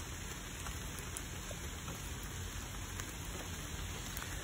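Steady light rain falling on a puddle and wet asphalt, with a few scattered drop ticks.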